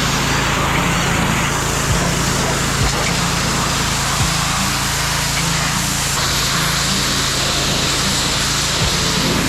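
Pressure washer running steadily, its motor humming under a constant hiss of high-pressure water spray, with a few faint knocks.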